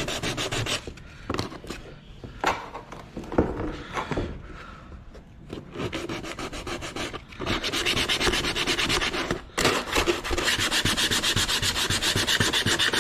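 80-grit sandpaper rubbed by hand over a plastic bumper cover, scuffing it in quick, even back-and-forth strokes to key the surface for a fiberglass patch. The scrubbing stops about a second in, leaving a few sharp knocks and scrapes, then starts again a little past halfway and carries on steadily.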